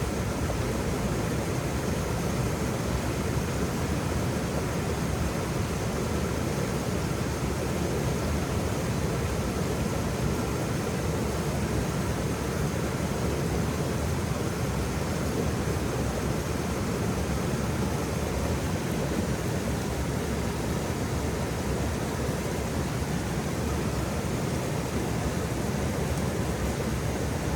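Waterfall: a steady, even rush of falling water, deep and unbroken.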